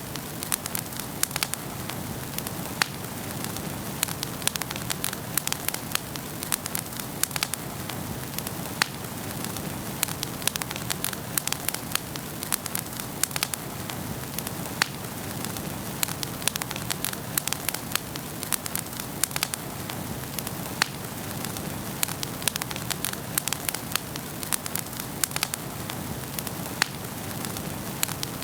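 Wood fire burning in a fireplace: a steady low rushing hiss with frequent sharp, irregular crackles and pops.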